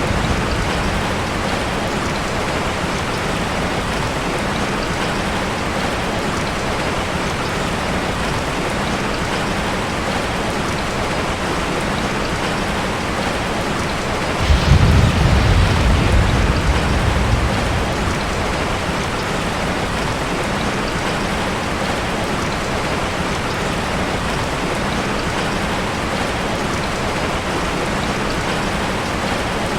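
Heavy rain falling steadily, with a sudden low rumble of thunder about halfway through that fades away over about three seconds.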